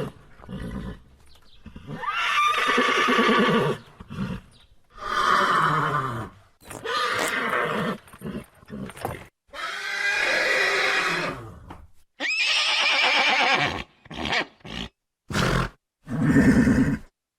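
Horse neighing: a series of loud whinnies, each one to two seconds long with a quavering pitch, followed by several shorter calls near the end.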